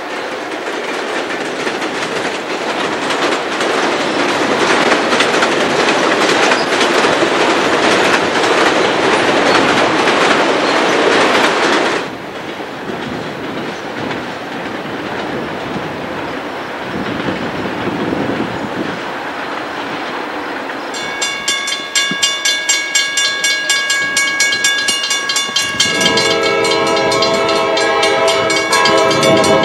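A diesel-hauled train passing close by with a loud, steady rumble and wheel clatter, which cuts off suddenly about twelve seconds in. A quieter string of autorack cars then rolls past. From about twenty seconds a grade-crossing bell rings at about three strokes a second, and near the end the approaching CSX locomotive sounds its air horn, a chord of several tones.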